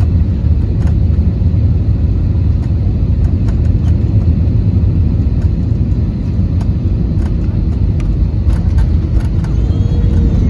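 Airbus A320 cabin noise: a loud, steady low rumble of engines and airflow, with a few faint ticks.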